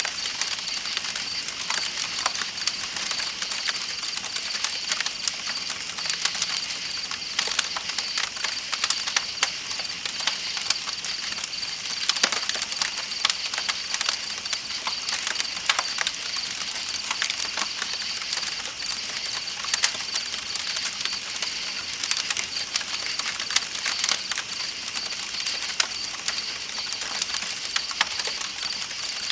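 Campfire crackling with frequent irregular pops, over a steady high-pitched chirring of night insects and the hiss of a flowing river.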